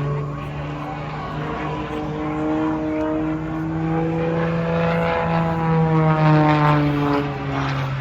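Propeller-driven stunt plane's engine running, its pitch climbing slowly through the middle and dropping again near the end as it manoeuvres.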